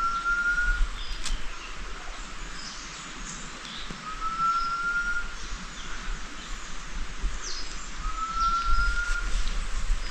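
A bird's single long whistle, slightly rising, repeated about every four seconds, over a steady background of night insects.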